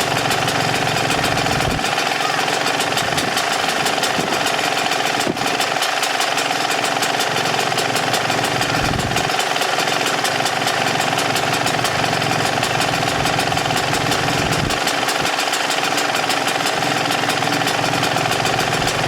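2018 Yamaha YZ125's single-cylinder two-stroke engine idling steadily with a rapid even pulse. It is running on its first warm-up heat cycle after a top-end rebuild with a fresh piston.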